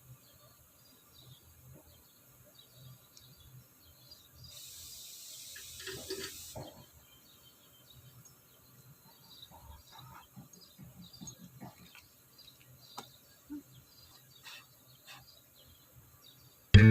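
Faint outdoor background with scattered small chirps and light clicks, and a brief hiss lasting about two seconds around five seconds in.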